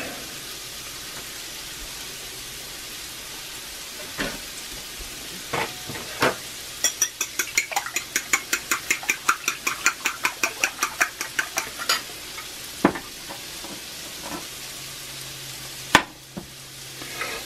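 Diced potatoes, mushrooms and bacon sizzling in a cast iron skillet with a steady hiss. A fork whisks eggs in a bowl in the middle, a run of quick clicks about five a second. A few single taps come before and after the run, the loudest near the end.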